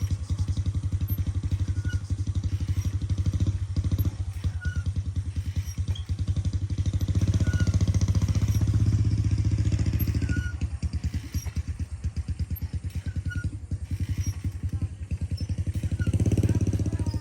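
A small engine running close by, its speed and loudness rising and falling, loudest about eight to ten seconds in and again near the end.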